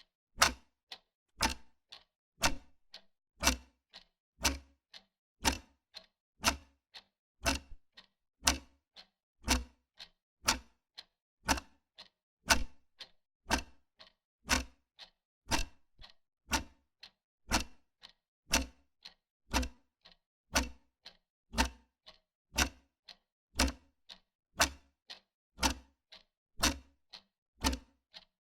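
Wall clock ticking steadily, a louder tick about once a second with a softer tick between.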